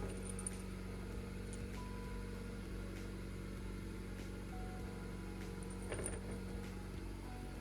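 Mazda CX-3's 2.0-litre SkyActiv-G four-cylinder petrol engine idling steadily, with a couple of faint clicks about six seconds in.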